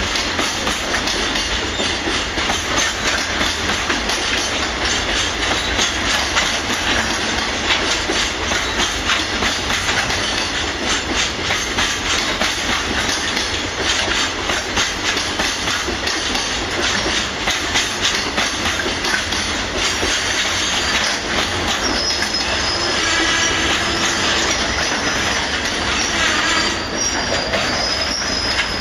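Freight train rolling past, with its wheels clacking steadily over the rail joints. Toward the end come high-pitched squealing tones from the wheels.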